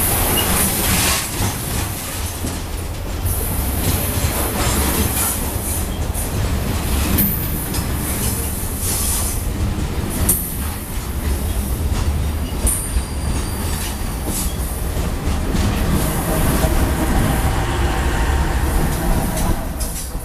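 Freight wagons rolling past at close range: a steady low rumble of steel wheels on rail, with clacking and several short, high wheel squeals.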